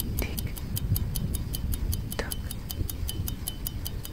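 Clock tick-tock sound effect of a countdown timer: quick, even ticks, about five a second, over a low rumble.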